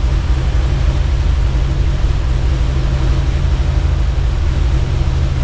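The V8 of a cammed Chevrolet Camaro SS idling steadily on the first start-up of its newly installed engine, run before the coolant and power steering fluid were topped off.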